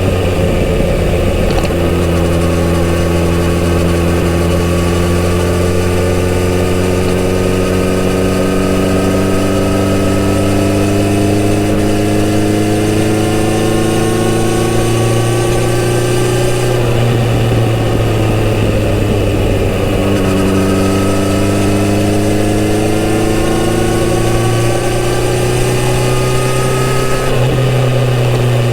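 Kawasaki Z900RS inline-four on its stock exhaust, heard while riding: the engine note climbs slowly and steadily for about fifteen seconds, drops back, then climbs again and drops near the end.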